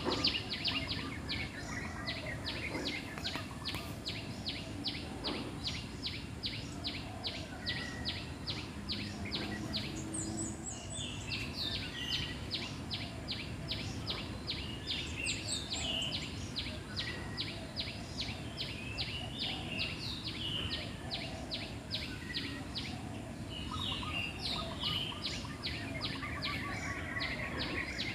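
Wild birds chirping at irregular moments over a steady, rapid series of short high calls repeating about two to three times a second, against a constant background hiss of outdoor ambience.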